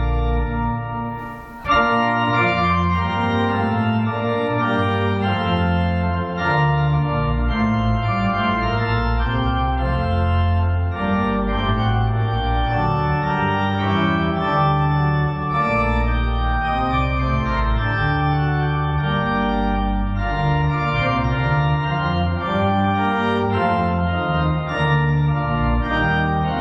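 Church organ playing sustained chords without singing, the music briefly dying away and then a new phrase starting sharply about two seconds in.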